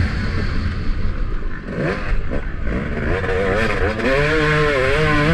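Motocross bike engine heard from the rider's helmet, revving up and down over the bumps; about a second and a half in the throttle is mostly shut for about two seconds, with a short rise in pitch, then it is opened hard again.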